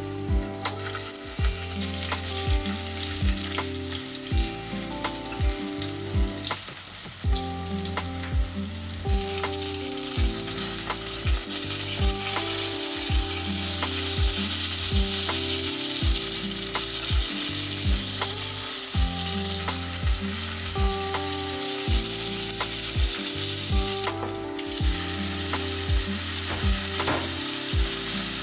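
Zucchini rounds sizzling as they fry in olive oil. The sizzle grows fuller about halfway through and flares briefly near the end as chopped tomato goes into the pan. Laid-back lo-fi music with a steady beat plays underneath.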